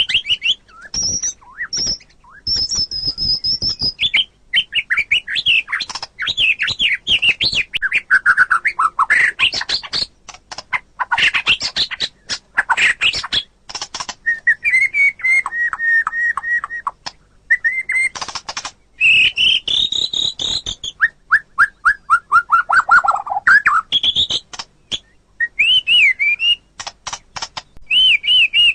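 White-rumped shama (murai batu) singing a varied song: rapid whistled trills, quick runs of sharp clicking notes and series of gliding whistles, phrase after phrase with only brief pauses. Near the end comes a lower series of whistles sliding downward.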